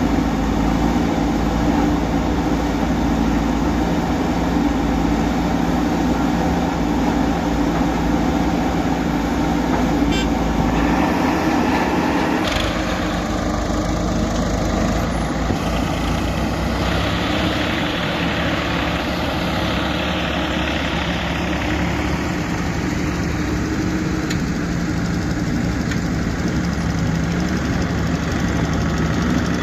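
Diesel engine of a JCB backhoe loader running steadily, its note changing about 11 seconds in and again about 17 seconds in. A faint falling whine is heard near the middle.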